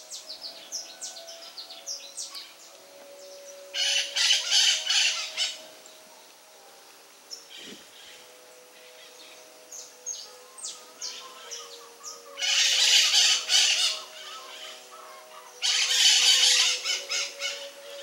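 Birds chirping, with short high calls throughout and three loud bursts of dense chattering, about four, twelve and a half and sixteen seconds in.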